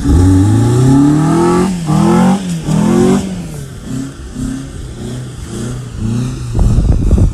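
Vintage fastback coupe's engine revving hard as the car spins its wheels through sand. The pitch climbs for the first couple of seconds, drops and climbs again, then swells up and down in short repeated blips.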